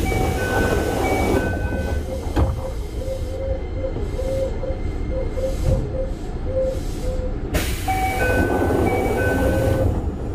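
Toei 5300 series train standing at a station stop, heard from inside the car over a steady rumble. A short sequence of chime-like tones plays, then repeats from about eight seconds in, and sudden loud rushes of noise come at the start and again about seven and a half seconds in.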